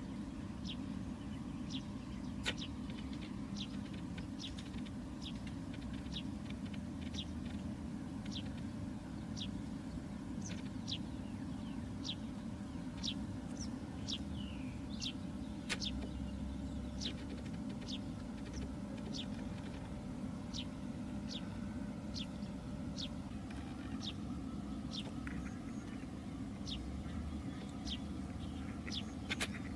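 A small bird repeating a short, high, downward-sliding chirp about once a second over a steady low rumble, with a couple of sharp clicks.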